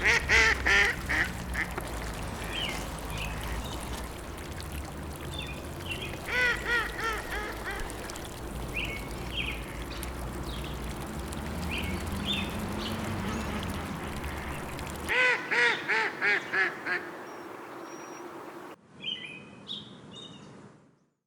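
Ducks quacking in three quick runs of calls over a steady background rush. Near the end the sound changes abruptly to a quieter stretch with brief high chirps, then cuts out.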